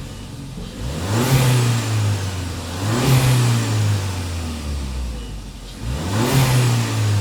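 Audi A1 engine revved three times, each rev climbing quickly and dropping back toward idle.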